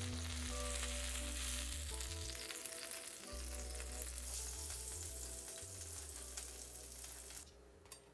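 Egg-wrapped flatbread roll frying in oil in a nonstick pan: steady sizzling that cuts off about seven seconds in.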